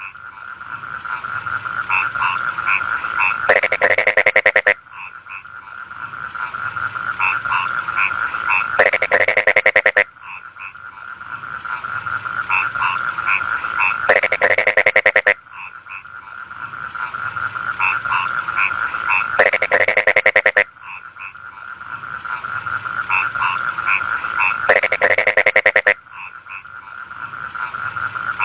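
Rice-field frogs croaking. A loud, rapidly pulsed call about a second long comes back about every five seconds, with runs of shorter croaks building up between the calls, over a steady chorus.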